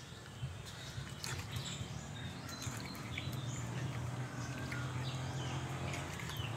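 Birds chirping in short high calls over a steady low hum, with a few brief scraping clicks.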